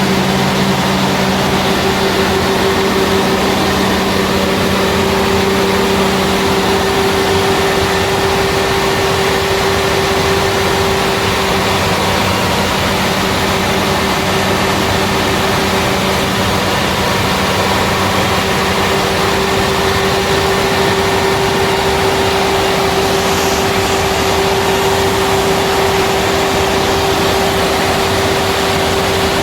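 Scania 360 hp diesel engine running steadily on a test run, with a constant hum. A lower droning note fades out a few seconds in.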